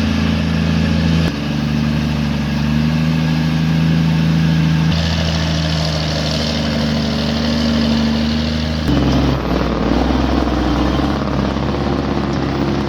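Diesel engines of heavily loaded log trucks running hard under load, with steady low engine tones. The engine note changes abruptly three times as one truck gives way to another.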